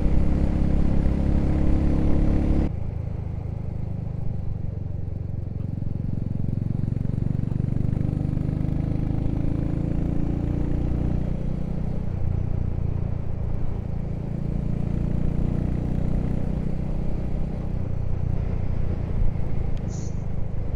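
Motorcycle engine running steadily while riding, over a low wind rumble on the microphone. The sound changes abruptly about three seconds in.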